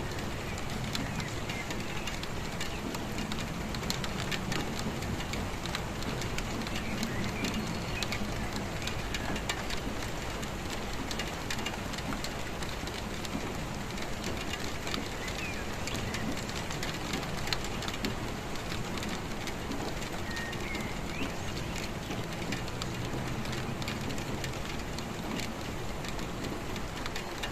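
Steady rain falling, a continuous hiss dotted with the ticks of individual drops striking a surface.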